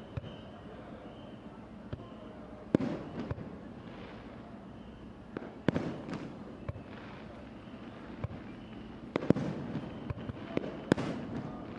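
Fireworks display: aerial shells bursting one after another with sharp bangs a second or so apart, each echoing after it, denser near the end.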